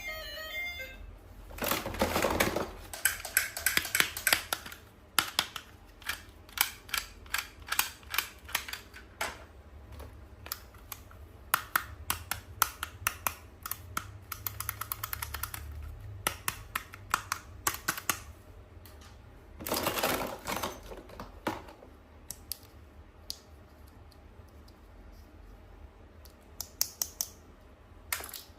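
Small plastic toys and packaging being handled: a long run of light clicks and taps, often several a second, with two short rustling bursts, one near the start and one about two-thirds of the way through.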